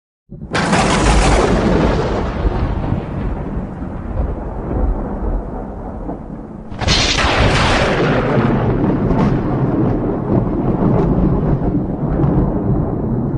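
Thunder: a sudden loud crack just after silence, rolling off into a long rumble. A second crack comes about seven seconds in, followed by more rolling rumble with small crackles.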